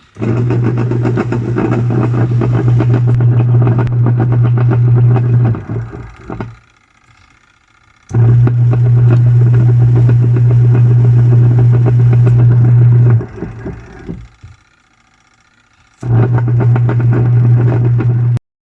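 Top-loading washing machine with a faulty gearbox running in three bursts, each a loud steady motor hum with heavy rattling that winds down when it stops. This noisy, 'helicopter-like' running comes from hardened plastic debris inside the gearbox.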